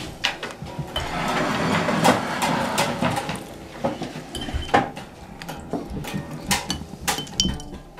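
Kitchen handling sounds: knocks and clinks of utensils and crockery being moved about and handled with a spoon, with a couple of seconds of rushing noise about a second in.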